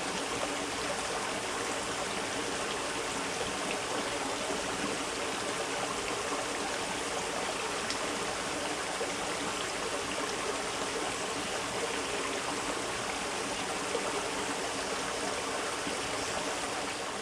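Small brook running steadily over rocks, a continuous rushing and trickling of water.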